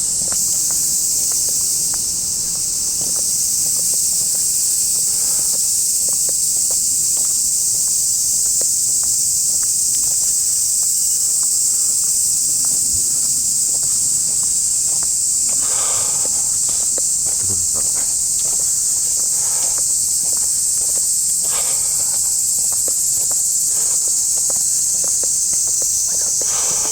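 A dense, steady chorus of summer cicadas shrilling without a break, with the light crunch of footsteps on a path underneath.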